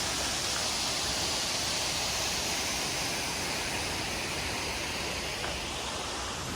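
Waterfall rushing, a steady even hiss of falling water with no breaks or swells.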